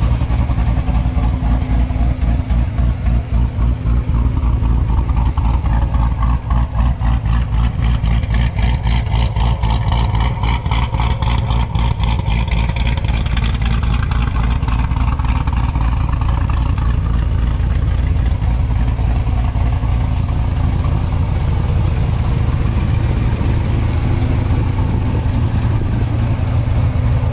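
Supercharged 6.2-litre LT4 V8 of a 2016 Corvette Z06, built with an aftermarket cam, ported blower and long-tube headers, idling with a steady rhythmic exhaust pulse.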